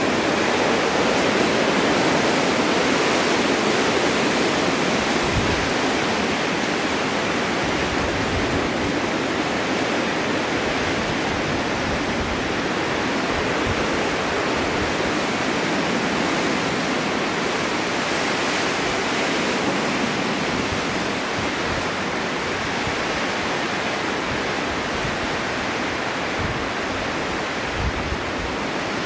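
Snowstorm wind blowing steadily, a constant rushing hiss that swells and eases slowly, with a few brief low buffets about a fifth of the way in and again near the end.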